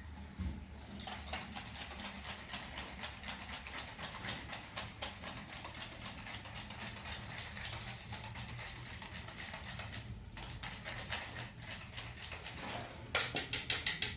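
Rapid, irregular tapping and clicking throughout, with a louder run of quick clicks near the end.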